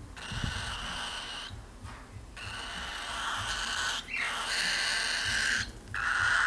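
Cockatiel chick giving long, raspy food-begging calls, about four in a row with short breaks between them: the hungry chick is begging its parent to feed it.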